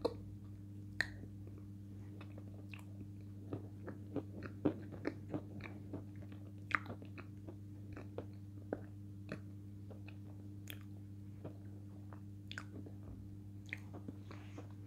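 Close-up chewing of a lump of edible chalk, with irregular soft crunches and clicks; the piece is slightly damp and doesn't crunch as crisply as usual. A steady low hum runs underneath.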